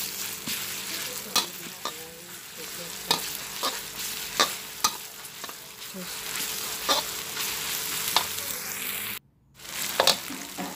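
Sliced onions, curry leaves and ginger sizzling in hot oil in a wok, with a metal spatula scraping and clicking against the pan about once a second as they are stirred. The sound breaks off for a moment near the end.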